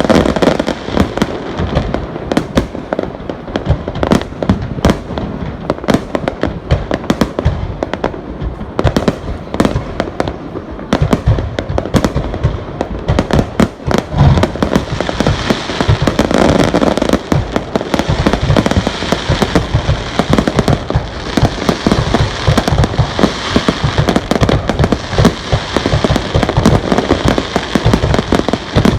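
Fireworks display: a dense, continuous run of loud bangs from bursting shells, several a second.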